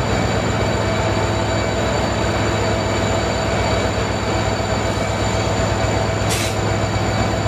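Train running steadily: a continuous loud rumble with a few steady whining tones, and a short hiss about six seconds in.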